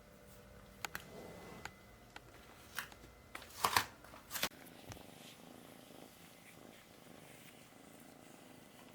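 Kitten purring softly, with a few sharp clicks and short rustles over the first half, the loudest about three and a half seconds in.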